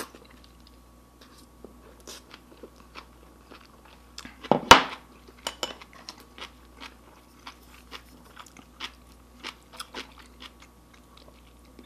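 Close-miked chewing of a mouthful of ramyun noodles: many small wet mouth clicks. One short, sharp, loud sound about four and a half seconds in.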